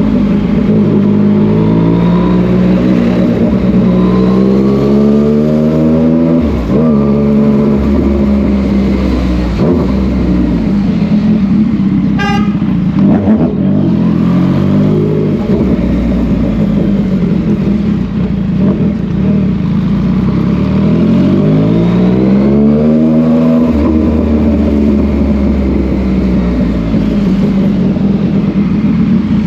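Yamaha MT-09 three-cylinder motorcycle engine running and being ridden, its pitch rising with the throttle and falling back several times. A brief sharp, high sound cuts in about twelve seconds in.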